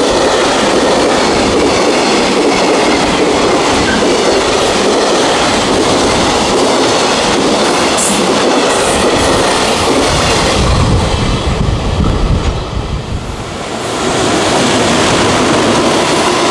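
Freight train rolling past at speed, its wagons' wheels clattering over the rail joints in a loud, steady run. About three-quarters of the way through there is a short deeper rumble, then the noise drops briefly before it picks up again.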